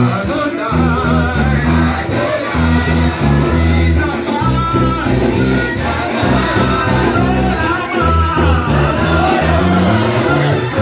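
Live church worship music: a band with a steady bass line and guitar, with singing over it.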